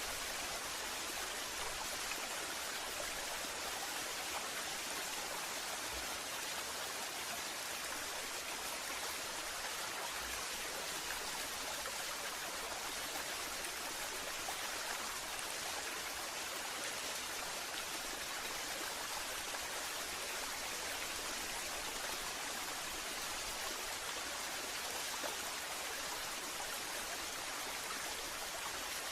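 A waterfall, water falling and splashing in a steady, even hiss with little low rumble.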